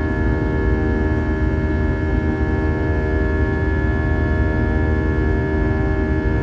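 Steady drone of an Airbus A320-232's IAE V2500 turbofan engines heard inside the passenger cabin: a constant low rumble with several steady whining tones over it, unchanging in pitch and level.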